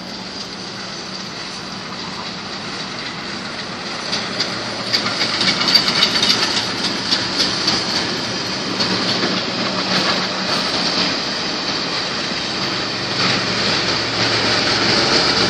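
Passenger train hauled by a steam locomotive, with a diesel-electric helper at the rear, passing by: coaches clattering over the rail joints, louder from about four seconds in.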